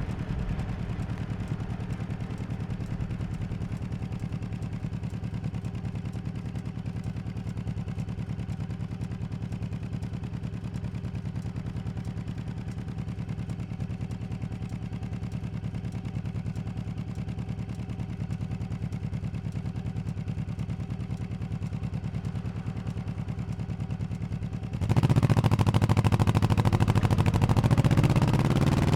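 1100cc V-twin motorcycle engine running steadily at low revs, then about 25 seconds in it opens up suddenly and gets much louder, its pitch rising as the bike accelerates.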